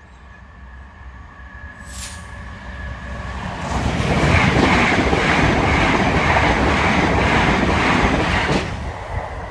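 Greater Anglia electric multiple unit passing over a level crossing at speed. The rumble of wheels on rail builds as it approaches, stays loud for about five seconds while the carriages go by, then drops away near the end.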